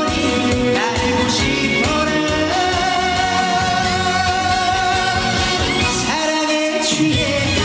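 Live trot song: a male singer sings over a pop-style band accompaniment, holding one long note through the middle.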